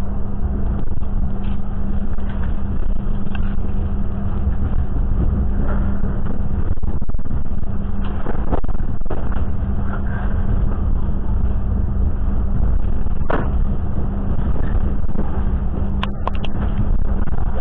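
Passenger train running along the line: a steady low rumble with a constant hum, broken by a few scattered clicks and knocks.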